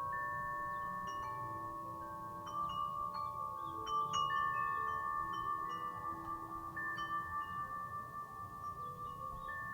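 Wind chime ringing in the breeze: irregular strikes every second or so, each leaving clear tones that ring on and overlap, with a light wind rumble underneath.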